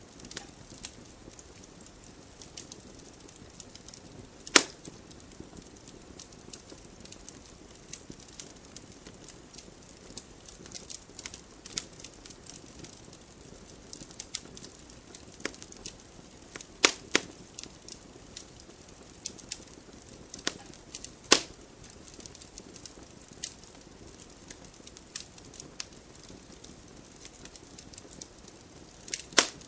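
Wood fire burning in a fireplace: a soft steady hiss with frequent small crackles and a few loud sharp pops from the burning logs.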